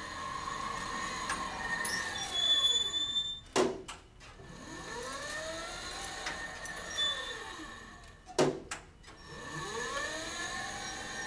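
Electric drive motor of a Taylor Dunn 36-volt electric utility truck whining, its pitch falling as it slows and rising as it speeds up again, twice over. There are two short sharp clunks, about three and a half and eight and a half seconds in, where the whine drops away.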